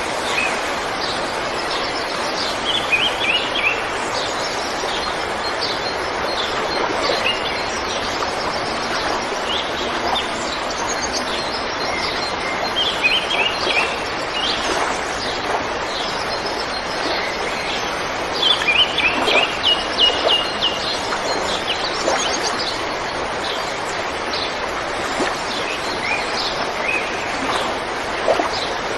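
A river running steadily, with songbirds chirping over it in short runs of quick high notes every several seconds, busiest about two-thirds of the way in.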